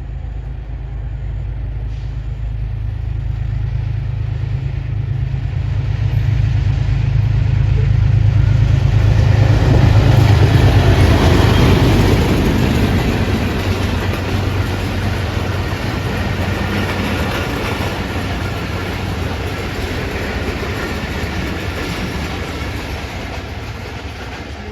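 Passenger express train hauled by a GEU-20 diesel locomotive passing close by. The engine drone and rail noise build to their loudest about ten to twelve seconds in as it goes past, then the coaches' wheel rumble slowly fades away.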